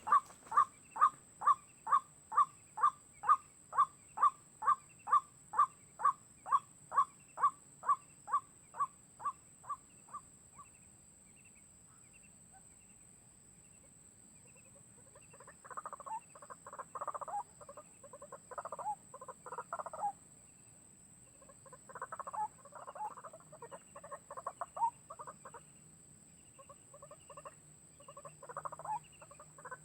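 White-breasted waterhen calling: a steady series of single notes, about two a second, that slowly fades and stops about ten seconds in. After a pause come bouts of rougher, irregular chattering calls.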